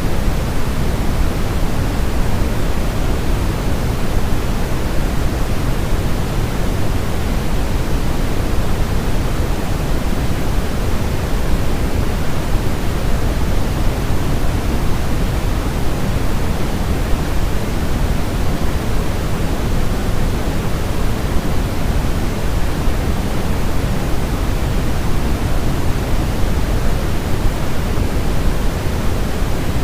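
Steady generated noise for soothing a baby to sleep: an unbroken, even hiss, weighted toward the low end, without pauses or changes.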